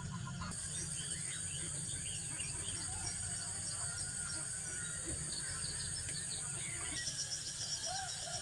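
Outdoor rural ambience: a steady high-pitched insect drone with many short bird chirps over it, joined about seven seconds in by a rapid pulsing insect trill, and a low rumble underneath.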